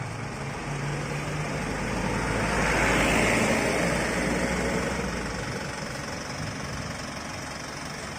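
Truck engine running. It swells louder about three seconds in, then eases off, as a truck does when driving past.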